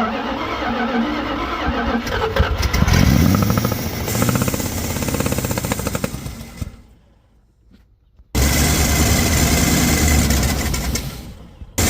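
1985 Dodge engine starting up and running unevenly, with a steady pulsing beat. It fades away past the middle and comes back suddenly a little later. The engine has a bad exhaust leak that makes it sound like rod knock, which the owner says it is not.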